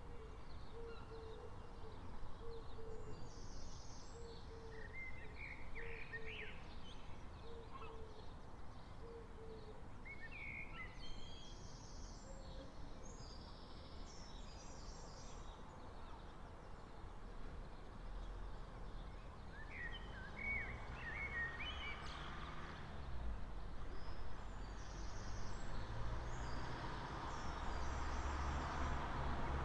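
Early-morning street ambience: several birds singing in short chirping phrases over a steady low traffic hum. A vehicle approaches and grows louder near the end.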